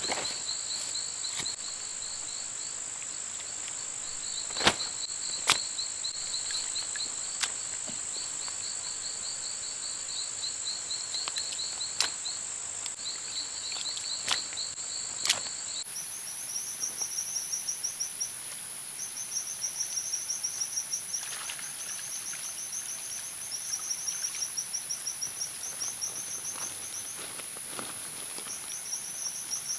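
Rainforest insect chorus: a steady high-pitched drone with rapid chirping trills repeating beneath it, both shifting higher about halfway through. A few sharp clicks or taps sound in the first half.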